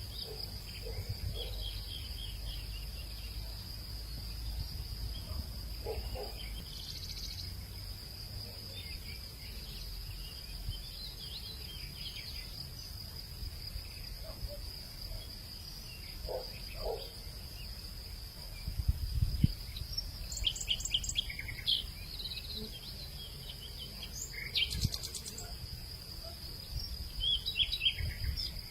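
Outdoor evening nature ambience: insects drone in a steady high pitch throughout, while birds chirp now and then, in busier bursts about two-thirds of the way in and near the end. A low rumble runs underneath.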